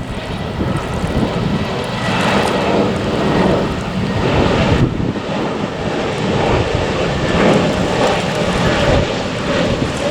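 Jet airliner engines rumbling steadily, a continuous noisy drone.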